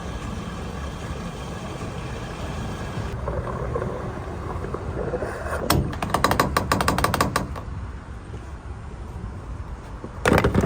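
Steady low vehicle rumble. About halfway through comes a couple of seconds of rapid ratchet-like mechanical clicking, and a shorter burst of clicks near the end.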